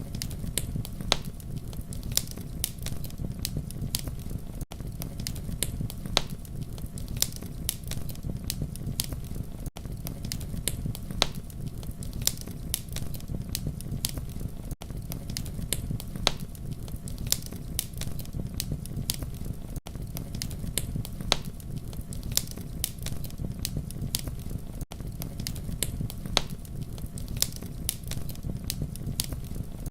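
Campfire burning with a steady low rumble and frequent sharp crackles and pops. The level dips briefly about every five seconds.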